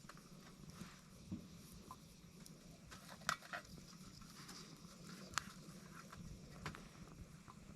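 Small wood fire burning in a titanium hexagon wood stove, crackling with scattered sharp pops and snaps over a low steady hiss; the loudest pops come about three and five seconds in.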